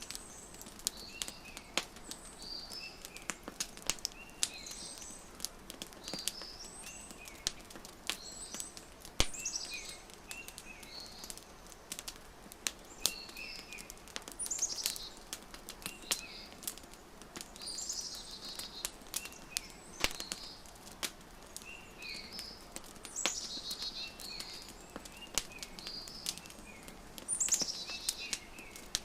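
Wood fire crackling, with frequent sharp pops at irregular intervals, while birds chirp in short repeated calls over it.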